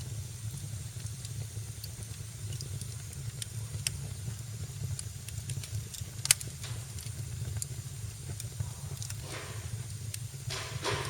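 Wood fire in a fireplace crackling, with scattered small pops and one sharper pop about six seconds in, over a low steady rumble of the flames. Near the end there are two short hissing swells.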